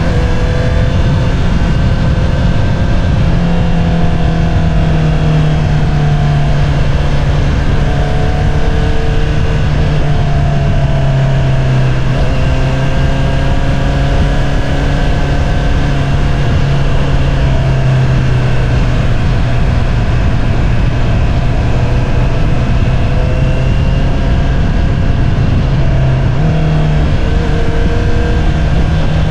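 2022 Honda CBR650R's inline-four engine through an Akrapovič single-outlet exhaust, running steadily under way. The engine note sinks slightly about ten seconds in and rises again near the end.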